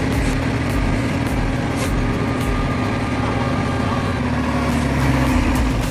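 A heavy vehicle's engine running steadily, a continuous low drone with no change in pitch.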